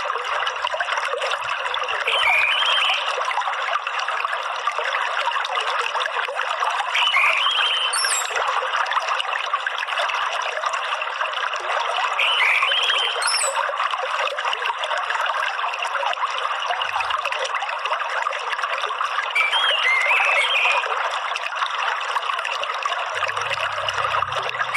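Steadily running, trickling water, with a bird giving short chirps every few seconds and a couple of brief high whistles over it.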